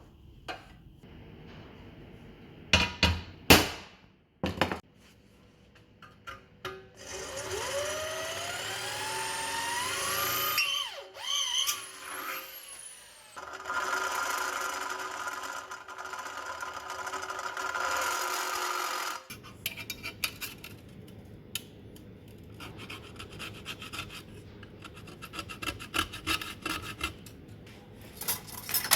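Metalworking tool noise: a few sharp knocks, then a motor that rises steeply in pitch, wavers, and runs steadily for several seconds before stopping abruptly, followed by scattered scraping and clicks.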